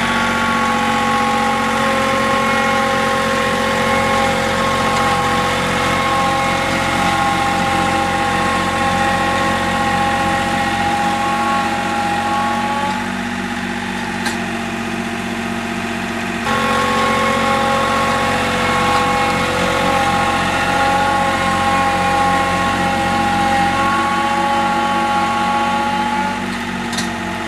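Tractor engine running steadily with an even pitch. Its level dips for a few seconds about halfway through, then comes back abruptly.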